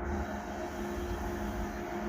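Train in a railway station: a steady low rumble with a steady hum in it.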